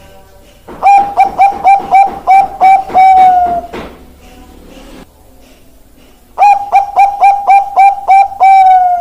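Zebra dove (Bangkok perkutut) singing two song bouts, each a run of about eight quick staccato coos ending in one longer, slightly falling note.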